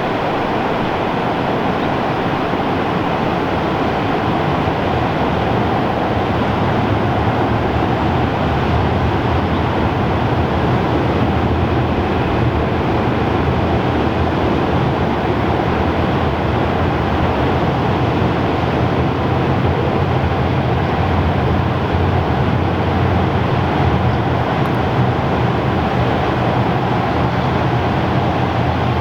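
Rhaetian Railway train running steadily on the Arosa line: a continuous rolling noise of wheels on rails with a low rumble underneath.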